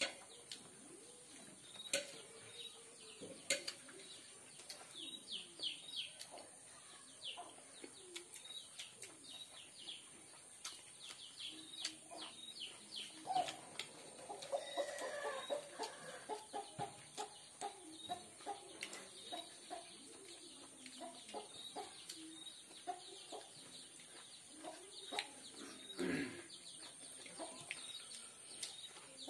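Close chewing and lip-smacking from eating by hand, heard as many short wet clicks. Chickens cluck in the background, most clearly in a run of repeated calls near the middle, with small birds chirping and a steady high hiss throughout.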